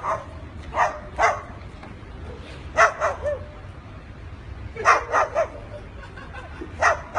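Short dog-like barks in twos and threes, a group every couple of seconds.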